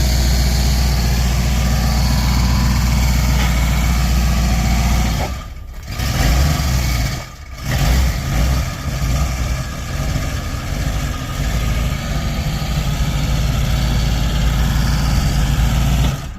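1992 Ford F350 tow truck engine running steadily; its level dips sharply twice, about five and a half and seven and a half seconds in, then comes back less even. The owner says the engine runs really rough.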